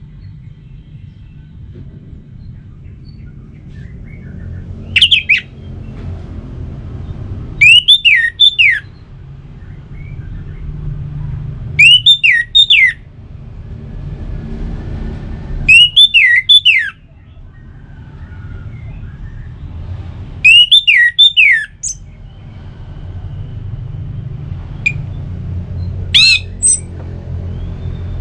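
Orange-headed thrush singing: six loud, short phrases of sharp, downward-sliding whistled notes, a few seconds apart, over a low background rumble.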